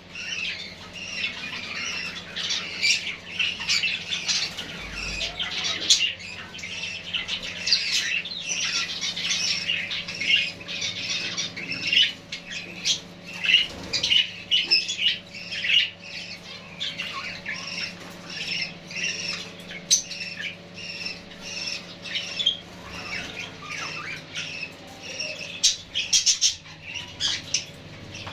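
A group of caged finches calling: many short, quick calls overlapping without a break, over a faint steady hum.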